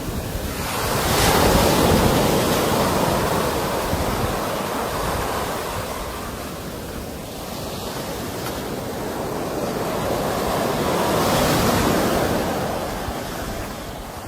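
Ocean waves breaking on the shore, two swells of surf about nine seconds apart, with wind rumbling on the microphone.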